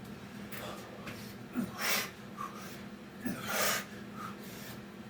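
A man breathing hard from the exertion of Navy SEAL burpees, with two loud rushes of breath about a second and a half apart.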